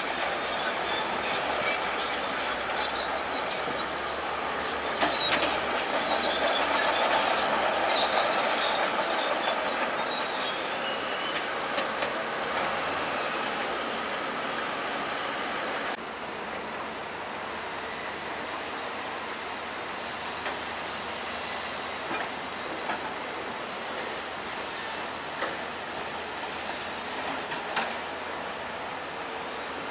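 Crawler bulldozer at work, its steel tracks squealing and clanking over the machine's running noise, with the high squeal strongest in the first ten seconds or so. About sixteen seconds in the sound drops abruptly to a steadier, quieter machine noise with scattered clanks.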